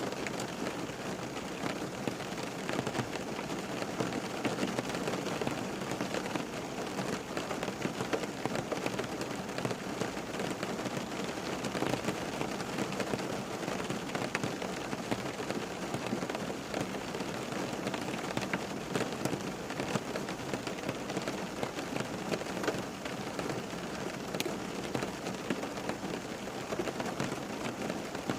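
Steady rain falling on a surface, a dense patter of many small drop ticks over an even hiss.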